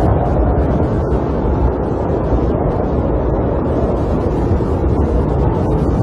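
Steady low rush of snowstorm wind heard from inside a camper, an even noise with no breaks.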